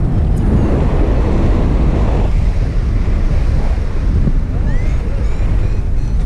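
Strong wind buffeting the microphone: a loud, steady low rumble with gusty roughness throughout.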